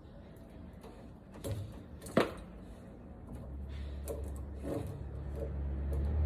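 A few sharp clicks and light knocks from hands working wiring connections at a furnace, the loudest just after two seconds in. From about halfway a low steady hum builds up and grows louder to the end.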